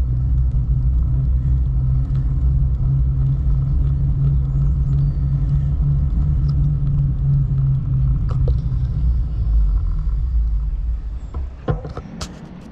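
Loud, steady low rumble that drops away about eleven seconds in, followed by a few sharp clicks.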